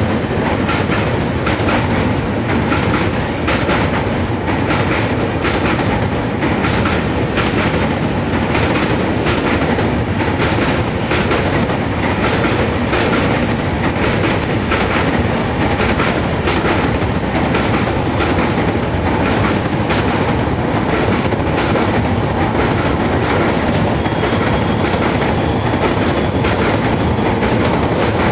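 Passenger train running at speed, its wheels clattering steadily over the rail joints in a fast, even click.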